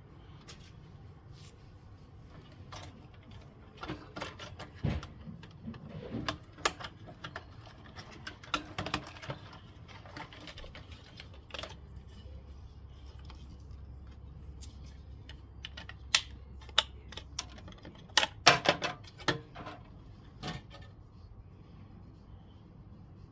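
Irregular clicks and knocks of hand work on small metal parts, loudest in a quick cluster about three-quarters of the way through, with a low steady hum for a few seconds in the middle.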